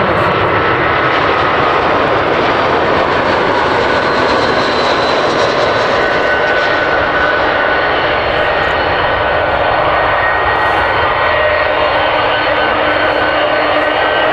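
Airbus A320-200 jet airliner landing: loud, steady jet engine noise with whining tones that slide slowly down, then start to rise near the end.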